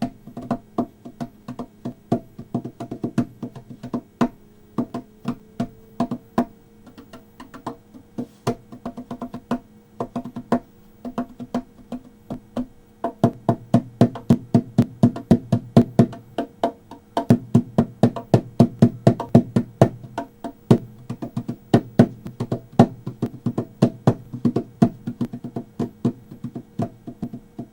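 A walnut lap cajon, a wooden box drum with a sound hole in the front, played in a quick, steady rhythm of hand strikes. The strikes get louder and busier about halfway through.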